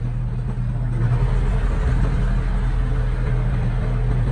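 Diesel engine of construction machinery running steadily under load, growing louder about a second in.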